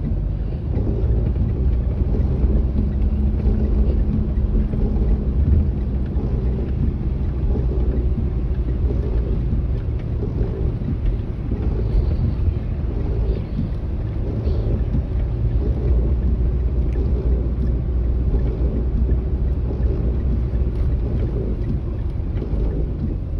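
Steady low rumble of a manual car's engine and road noise while driving, with wind buffeting the microphone.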